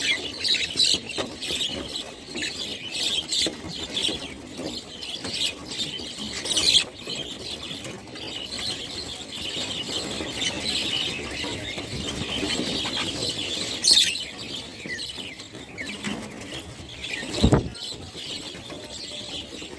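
A flock of birds chirping, with many short high calls overlapping and a few louder sharp calls among them. A brief low thump sounds near the end.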